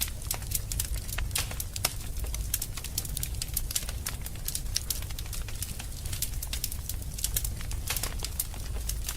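Fire burning in a fireplace, crackling with frequent sharp pops and snaps, several a second, over a steady low rumble of the flames.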